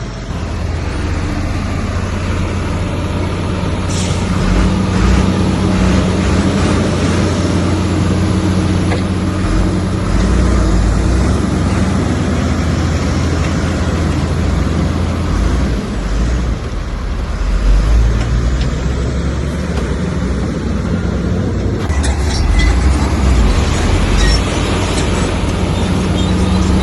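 Komatsu bulldozer's diesel engine working under load, its note rising and falling, with a few sharp metal clanks, several of them about three-quarters of the way through.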